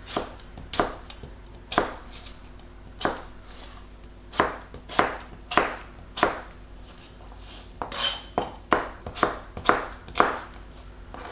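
Knife chopping an apple on a cutting board: a string of sharp, irregular knocks, coming faster in the second half.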